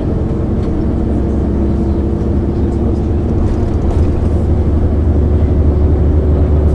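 MAN ÜL 353 intercity bus's diesel engine running under way, a steady low drone that grows slightly louder over the last few seconds.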